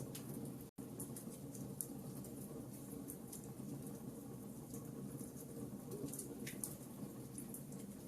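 Wood fire in a fireplace crackling, with scattered small pops and snaps over a steady low rumble. The sound cuts out for a split second just under a second in.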